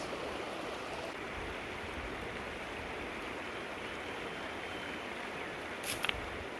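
Stream water flowing steadily, with a few short sharp clicks just before the end.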